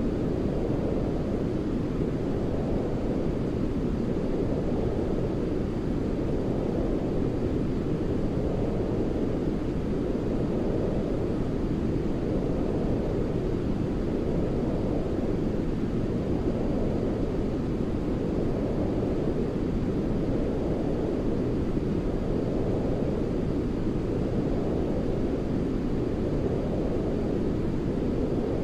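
Continuous deep sleep noise for soothing a baby: a low, rumbling hiss with little high hiss, swelling gently every two seconds or so.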